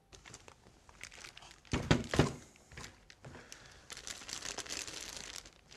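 Packaging of a replacement laser-printer fuser unit being handled: plastic crinkling, with a louder knock or two about two seconds in.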